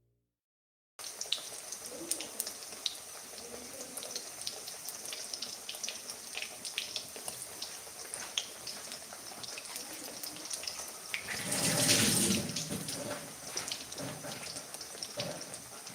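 Pakoras deep-frying in hot oil: a steady sizzle full of small crackles and pops. It starts about a second in and swells louder for a moment about three quarters of the way through.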